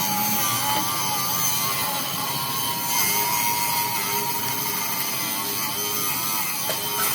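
A metalworking power tool or machine running steadily, with a thin whine that wavers slightly in pitch over a steady noisy hiss.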